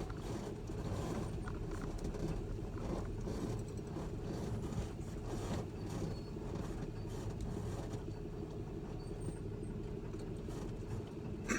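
Pickup truck carrying a slide-in camper, moving slowly over a rough dirt road. The engine runs low and steady under faint creaks and knocks from the load.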